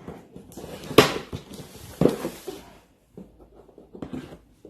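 Toy packaging being handled and opened: rustling, with two sharp knocks about a second apart and a few lighter clicks near the end.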